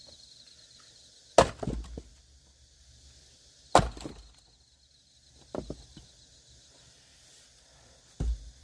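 Axe blows splitting firewood: two hard strikes about a second and a half in and again near four seconds, each followed by the clatter of split wood, then two lighter blows later on.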